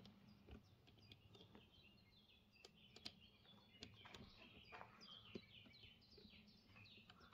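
Faint songbirds chirping and twittering in quick, repeated short notes, with a few soft clicks in between.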